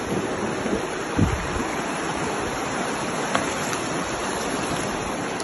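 Fast river water rushing steadily around a bamboo raft, with one brief low bump about a second in.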